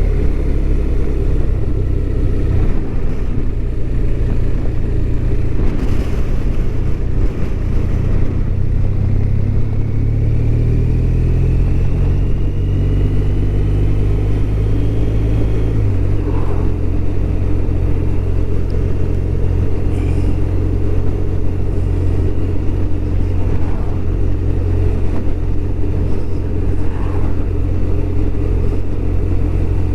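BMW R1200RT's boxer twin engine running at road speed, with wind and road noise. The engine pitch climbs slowly, then drops suddenly about halfway through before settling steady.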